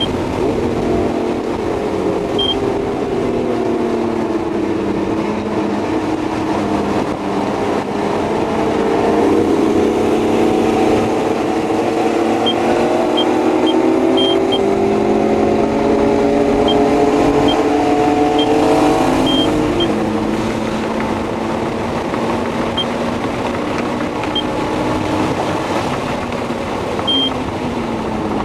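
Honda S2000's inline-four engine under hard track driving, heard from inside the cabin: the pitch climbs steadily as it pulls through the revs, then drops back at each shift or lift, over steady road and wind noise.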